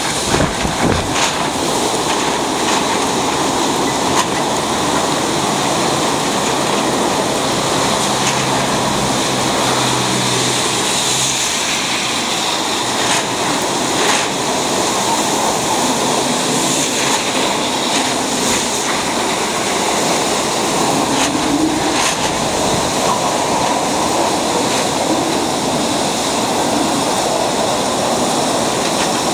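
Steady rushing roar of typhoon wind and heavy rain, with a faint low hum for a few seconds about a third of the way in.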